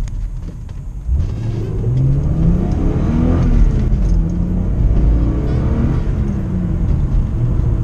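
BMW E36 328i's 2.8-litre straight-six petrol engine, heard from inside the cabin, revving up under hard acceleration. Its pitch climbs, drops at a gear change about three and a half seconds in, then climbs again.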